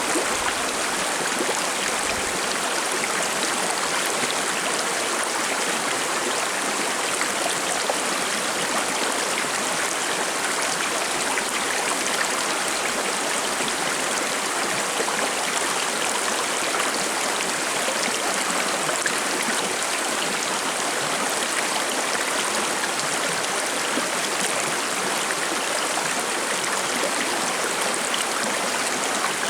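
Shallow forest river burbling and splashing over stones, a steady even rush with no pauses.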